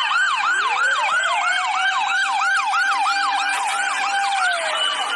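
Electronic toy siren: a fast repeating rising whoop, about three to four a second. A second tone slides up about half a second in, holds, then slides down near the end.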